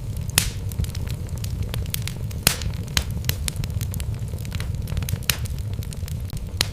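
Wood logs burning in a fireplace, crackling with frequent small snaps over a steady low rumble of the flames. Louder pops come about half a second in, at around two and a half seconds, and just after five seconds.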